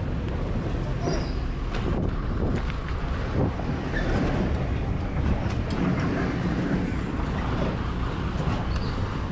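250 cc dirt bike engine running steadily while under way on the trail.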